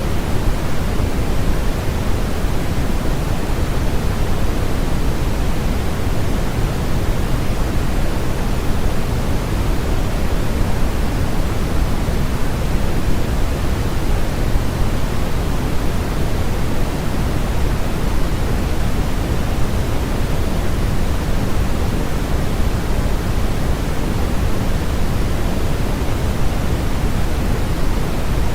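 Continuous generated white noise of the sleep-aid kind: a steady, unchanging hiss, fuller in the low end than in the highs.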